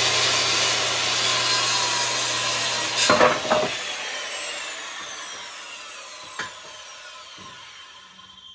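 Electric power saw cutting through wood with the blade running steadily. About three seconds in there is a short, louder burst as the cut ends, then the saw is switched off and its blade winds down with a falling whine, fading over the next five seconds.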